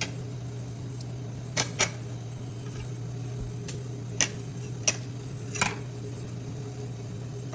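A few sharp clicks and taps of kitchen handling while a raw Cornish game hen is cleaned, over a steady low hum. There are two quick clicks about a second and a half in, then three more spaced through the middle.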